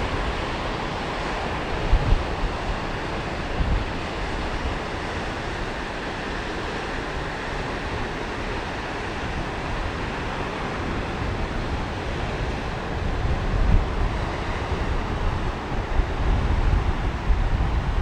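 Sea surf washing steadily onto a beach, with gusts of wind buffeting the microphone, more often near the end.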